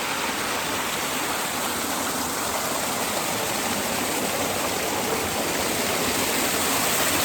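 Waterfall: a steady, even rush of falling water, loud enough to make the place noisy.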